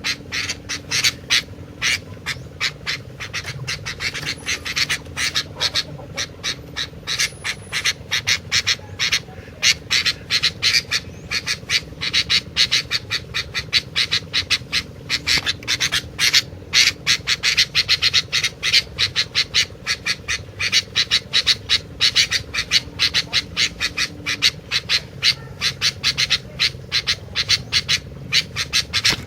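Sooty-headed bulbul (kutilang) calling without pause in a rapid, chattering run of short sharp notes, several a second.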